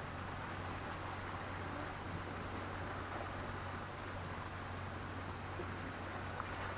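Sea surf washing steadily over a pebble beach as an even hiss, with a steady low rumble underneath.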